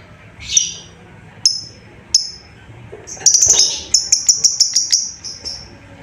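Lovebird calling to other birds with sharp, high chirps: a few single chirps, then a fast run of chirps starting about three seconds in and lasting nearly two seconds.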